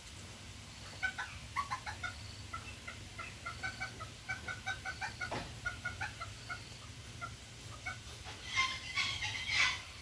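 Bird calls: a quick run of short pitched notes, several a second, with a louder cluster of calls near the end.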